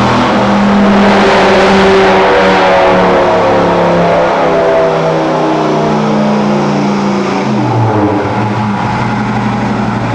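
2004 Dodge Ram SRT-10's 8.3-litre V10 running hard on a chassis dyno, loudest about two seconds in. It then eases off, and the engine note drops lower near the end as it winds down.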